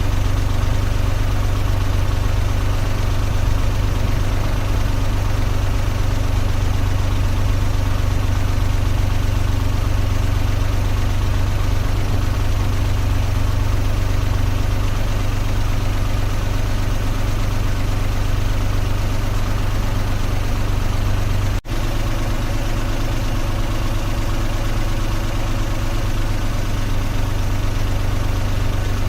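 Car engine running steadily with a constant low hum, with one momentary dropout about 22 seconds in.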